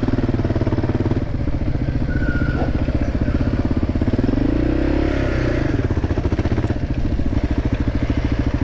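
Motorcycle engine running steadily under way, its pitch swelling and falling back once around the middle.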